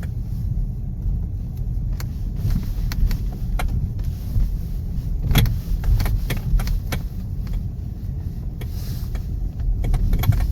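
2013 Hyundai Sonata driving, heard from inside: a steady low road rumble with scattered sharp knocks and rattles, the loudest cluster about five seconds in.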